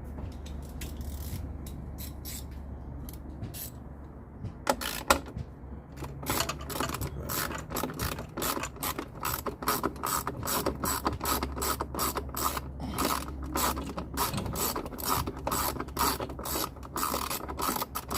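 Socket ratchet wrench with a 10 mm socket clicking as a bolt is turned: a few clicks at first, then a fast steady run of clicking from about six seconds in, over a low steady hum.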